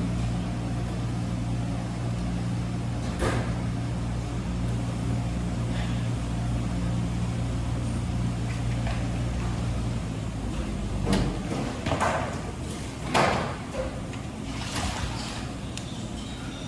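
Wascomat Senior W125 commercial washing machine near the end of its cycle: its motor hums steadily and then shuts off about ten seconds in. A few short clunks and knocks follow.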